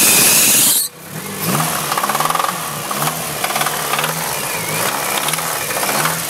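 Honda B16 four-cylinder DOHC VTEC engine being started: a loud burst of cranking for under a second, then the engine catches and runs, its pitch rising and falling unevenly.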